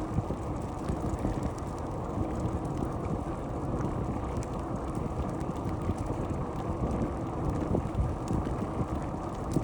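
Wind rumbling on the microphone of a camera riding along on a moving bicycle, with a few sharp knocks from the bike along the way.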